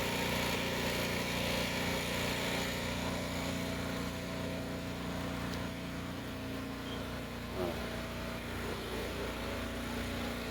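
An engine running steadily at a constant speed, with an even hum that changes slightly about six seconds in.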